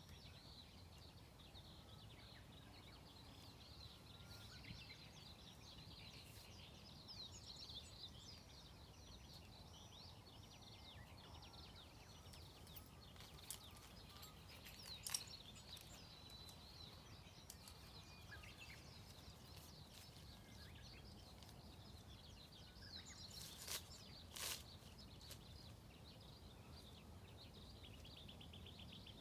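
Faint outdoor ambience with small birds chirping in repeated short calls, and a few sharp clicks or taps about halfway and again near the end.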